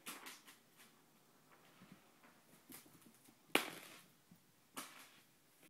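Cat chasing a feather wand toy: a few scattered taps and knocks over quiet room tone, the sharpest a single thump about three and a half seconds in.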